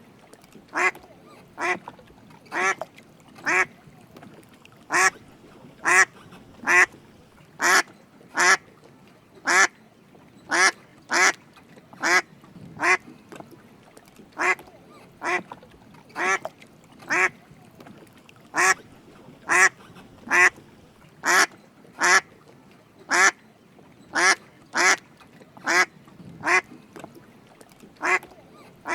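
Drake mallard quacking: short single calls repeated about once a second through the whole stretch, some in quick pairs, with a faint steady hiss between them.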